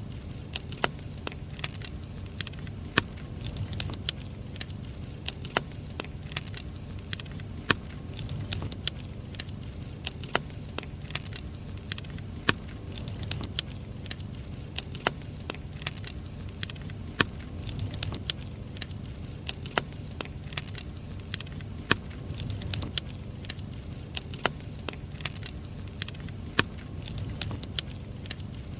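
Wood fire burning, with irregular sharp crackles and pops from the firewood over a low rumbling hiss of flame.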